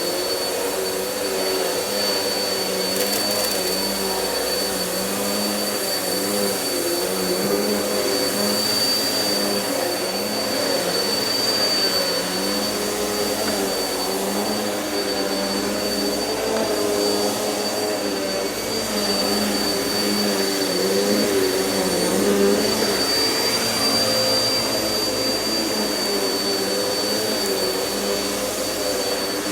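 A vacuum cleaner running continuously. It has a steady high whine over a motor hum whose pitch wavers up and down again and again.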